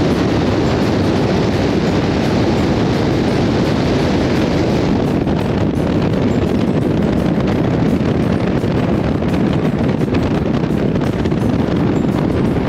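Steady loud rushing rumble of a moving vehicle with wind on the microphone; the higher hiss eases about five seconds in.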